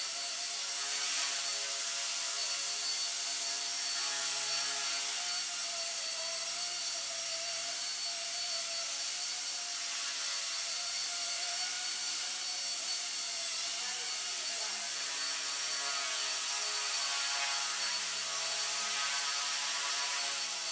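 Blade mCP X BL2 micro RC helicopter in flight: its brushless motor and spinning rotor blades make a steady whine and whir, the pitch wavering slightly as it holds a hover.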